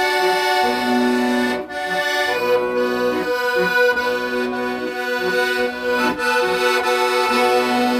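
Accordion playing a melody in held notes over sustained chords and bass, with brief breaks in the phrasing about two seconds in and again after six seconds.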